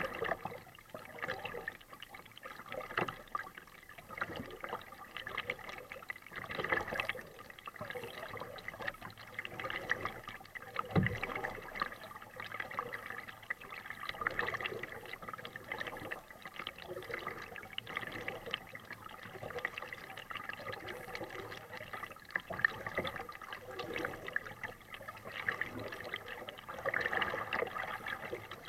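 Kayak paddling: the paddle blades dip and splash at an irregular pace every second or two, with water trickling and dripping off them. There is one low thump about eleven seconds in.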